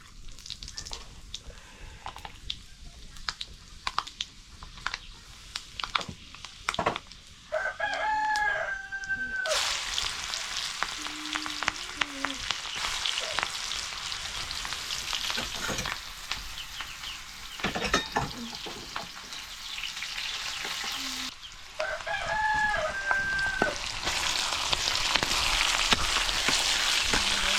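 Curry frying in hot oil in a pan, with stirring: the sizzle starts suddenly about a third of the way in and grows louder near the end, after a few scattered knocks. A rooster crows twice, once just before the sizzle starts and again later.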